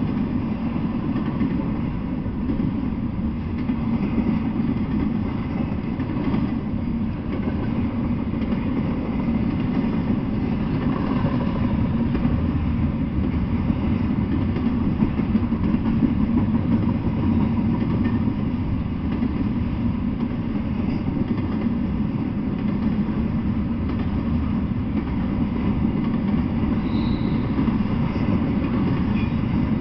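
Double-stack intermodal freight train rolling past steadily on its well cars. The wheels on the rails make a continuous low noise that stays even throughout.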